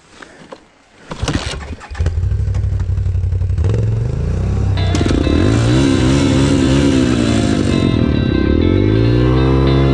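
Dirt bike engine starting about two seconds in and then running, its revs dipping and rising near the end.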